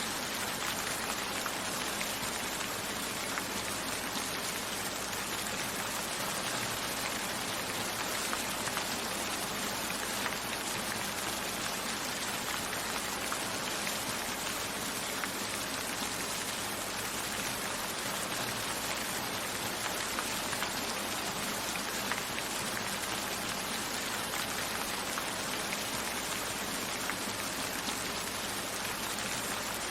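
Steady rain: an even hiss with scattered single drop hits, level throughout.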